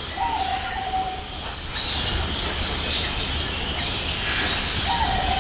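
Two long whistled bird calls about four and a half seconds apart, each stepping briefly up and then held level, over steady background hiss with faint high chirps.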